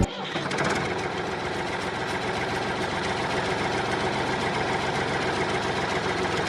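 Small motor running steadily with a fast, even rattle, driving the model mini flour mill.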